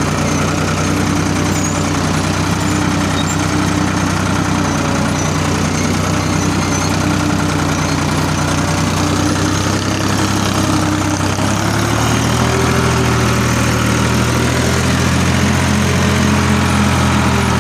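Ford 3600 tractor's three-cylinder engine running steadily under load, pulling a cultivator with the lift down. About twelve seconds in, the engine's pitch rises slightly and it gets a little louder.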